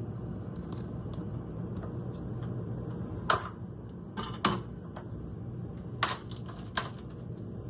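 Dishes and utensils knocking and clinking during food preparation, five short sharp knocks spread over a few seconds, against a steady low hum.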